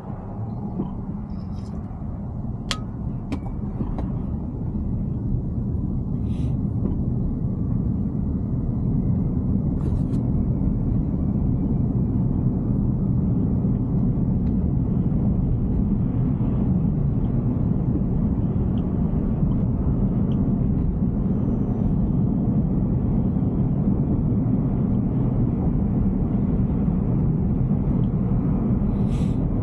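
Road and tyre noise from a Tesla Cybertruck driving, a steady low rumble with no engine note. It grows louder over the first several seconds as the truck picks up speed, then holds steady, with a sharp tick about three seconds in.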